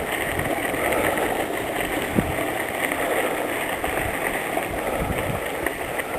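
Steady rushing noise of a bicycle ride: tyres rolling on the trail and air moving past the microphone. A single faint click comes about two seconds in.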